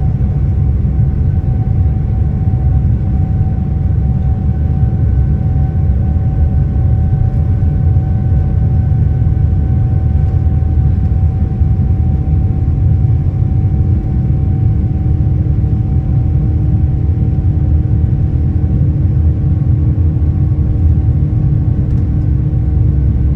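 Steady, loud cabin rumble of a Boeing 787-9 with its Rolls-Royce Trent 1000 engines running, with a steady whine of engine tones over it. A lower tone joins the rumble about halfway through.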